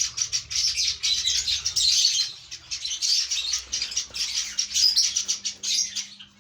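A flock of lovebirds chattering: many high, overlapping chirps at once, dying away at the very end.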